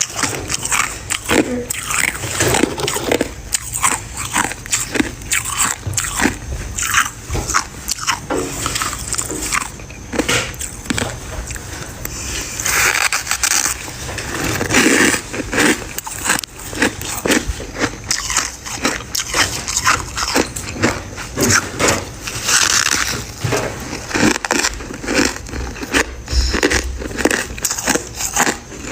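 Close-up crunching and chewing of freezer frost: many quick, irregular crackling bites and chews of brittle, powdery ice.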